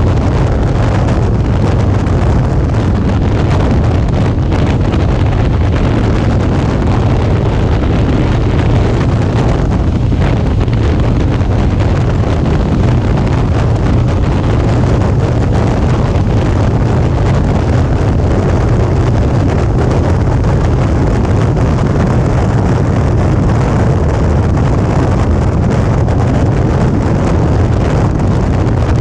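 Steady wind rush over the microphone of a motorcycle-mounted action camera, over the low running rumble of a Suzuki V-Strom 650's V-twin engine on the move.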